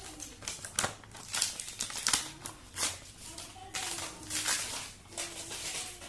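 Paper wrapping rustling and crinkling in irregular bursts as it is pulled off and unwrapped.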